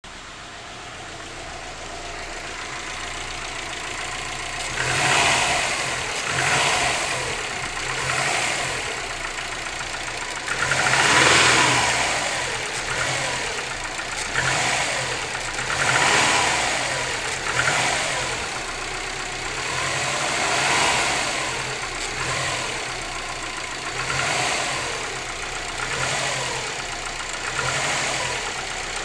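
Subaru WRX turbocharged flat-four running from cold, with a knock the owner takes for piston slap. From about five seconds in the revs rise and fall again every couple of seconds.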